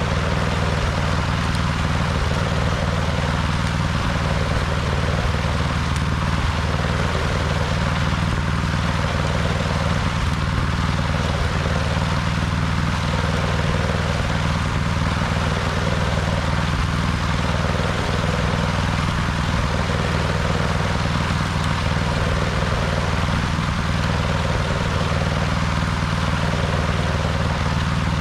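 Snowblower engine running steadily at constant speed.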